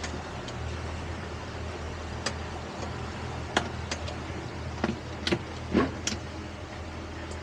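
Boat engine idling with a steady low hum, with a handful of short sharp knocks and clicks through the middle.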